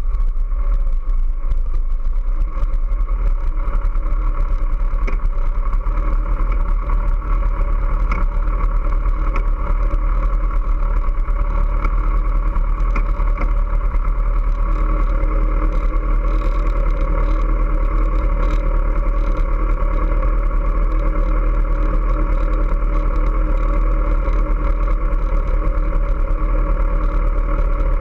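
Kawasaki ZX-14R's 1441 cc inline-four running at low, steady revs as the bike rolls slowly, with a deep rumble under an even engine note and no revving.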